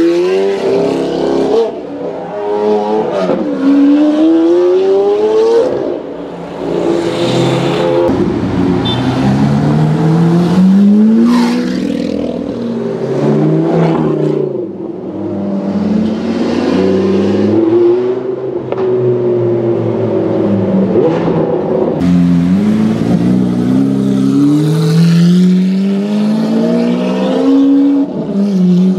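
Hamann Lamborghini Aventador's 6.5-litre V12 accelerating hard several times over, its pitch climbing through each gear and dropping sharply at every upshift.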